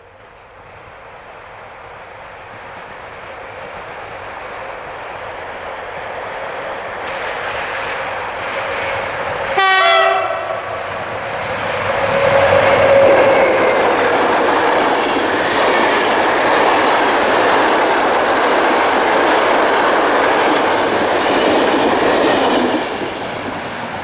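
A passenger train approaching, growing steadily louder, sounding one short horn blast about ten seconds in, then rolling past loudly for about ten seconds before the noise drops away suddenly.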